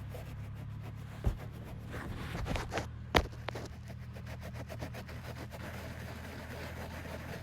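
A vehicle engine idling with a steady low hum. A few sharp clicks and knocks come over it, the loudest a little past three seconds in.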